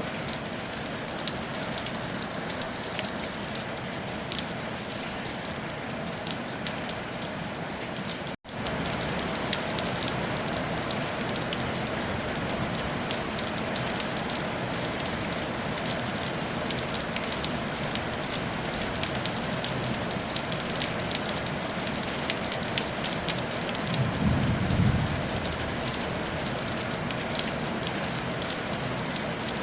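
Steady rain falling on a tile roof, a dense even patter of drops. The sound drops out for an instant about eight seconds in and returns slightly louder, and a brief low rumble rises and fades near the end.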